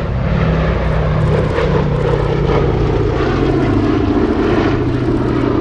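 Propeller engines of B-17 Flying Fortress "Sally B" running with a loud, steady drone. Its engines are four Wright Cyclone radials, and the engine note shifts slightly about a second and a half in.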